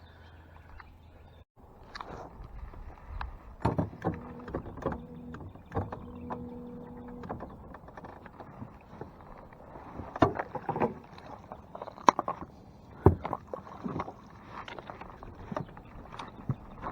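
Irregular knocks and clunks of gear and hands against a small fishing boat's hull, with a steady hum for about three seconds in the middle.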